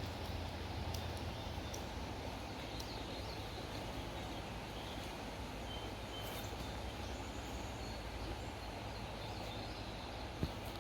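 Outdoor woodland ambience: a steady background hiss with a few faint, short bird chirps, and one sharp click near the end.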